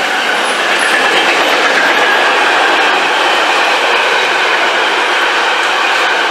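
Freight wagons of a fast freight train rolling past close by: a steady, loud rush of steel wheels on the rails, with a faint high whine over it.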